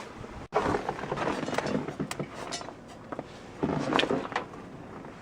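Boiling water being tossed from a pot into sub-zero air off a deck: a noisy rush about half a second in and another about four seconds in, with scattered knocks and clatters in between.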